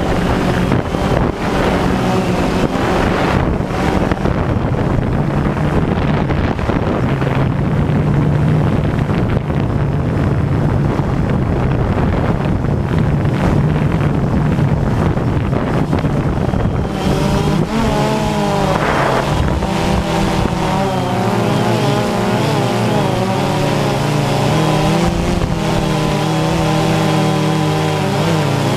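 DJI Phantom 2 quadcopter's motors and propellers buzzing, with wind noise on the microphone. From about 17 seconds in, the motor pitch wavers up and down as the motors change speed.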